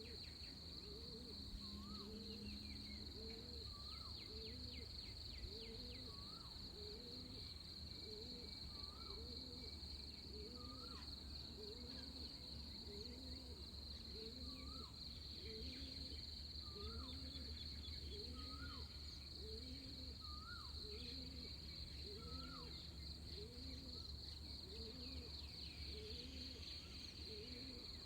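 Dawn chorus of insects and birds: a steady high-pitched insect drone underneath, with a low rising-and-falling call repeated about once a second and a higher hooked note every second or two.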